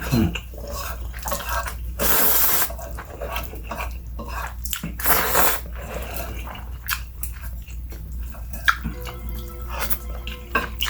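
Close-up mouth sounds of eating instant pancit canton noodles: wet chewing and smacking with many small clicks, and two longer slurps about two and five seconds in.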